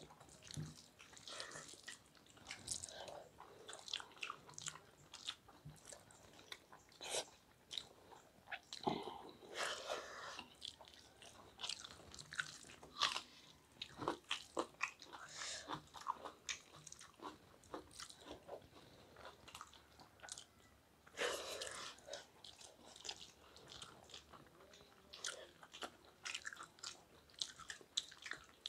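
Close-miked chewing and biting of two people eating rice with egg curry by hand: irregular wet smacks and small crunches, one after another.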